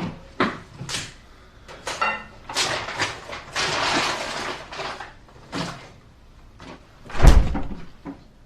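A run of short knocks and clicks like a door and things being handled, a rustling stretch in the middle, and a heavy thump about seven seconds in.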